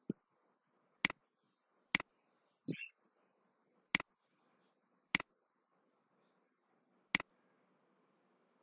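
Computer mouse clicking: five sharp clicks, each a quick press-and-release pair, spaced one to two seconds apart. A brief softer sound falls between the second and third clicks.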